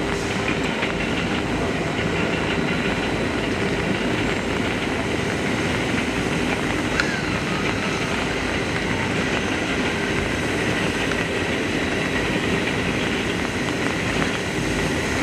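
JNR class C57 steam locomotive C57 1 running on rails, a steady dense noise of steam and wheels with no sharp beats standing out.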